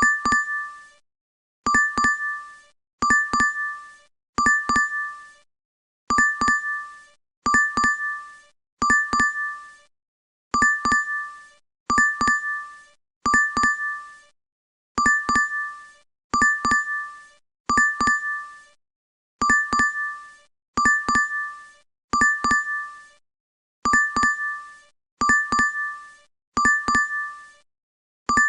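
DoorDash app notification chime, a quick cluster of bright two-tone dings, repeating about every second and a half in a loop.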